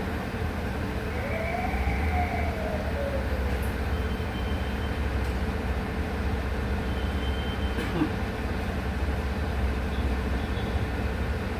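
Volksbus 17-230 OD natural-gas (CNG) city bus running with a steady low engine drone. A brief whine rises and falls a second or two in, and there is a light click near the end.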